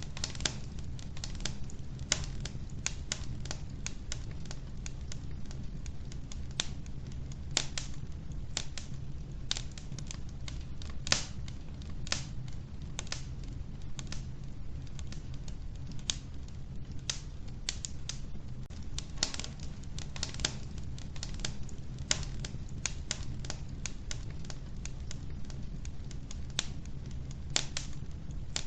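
Wood fire burning in an old wood-burning stove, crackling with frequent irregular sharp pops and snaps over a steady low rumble.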